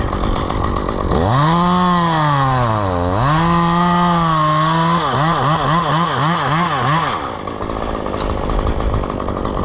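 Chainsaw running: its engine pitch rises, sags and recovers, holds steady, then wavers quickly up and down for about two seconds before settling back to a lower steady drone.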